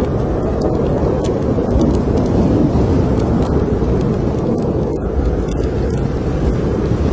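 Blizzard wind rumbling steadily, with the faint scattered crackles of a wood fire burning in a fireplace.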